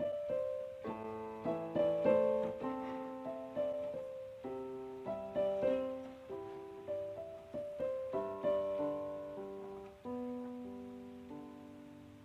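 Background music: a solo piano playing slow notes and chords, each struck and left to ring.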